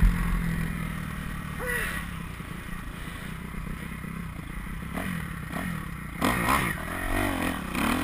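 A sharp knock right at the start, then a motocross bike engine running with its revs rising and falling, louder again near the end.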